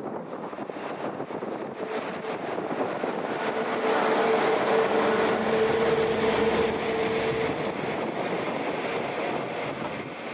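Train passing, its noise swelling to a peak midway and then easing, with a steady humming tone while it is loudest.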